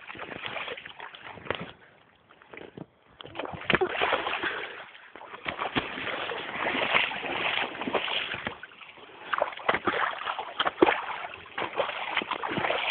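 Feet stamping and splashing in a rain puddle: irregular splashes and sloshes, with a short lull about two seconds in.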